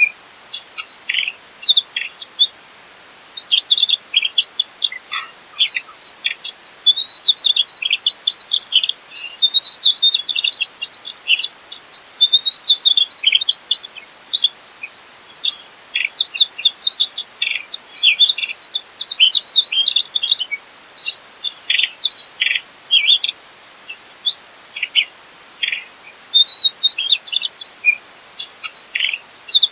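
Mugimaki flycatcher singing a fast, unbroken run of high chirps and twitters with only brief pauses.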